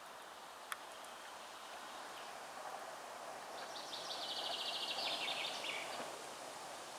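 Faint outdoor ambience with leaves rustling, and a songbird singing a rapid trill of high notes about three and a half seconds in, lasting about two seconds and dropping in pitch at the end. A single faint click about a second in.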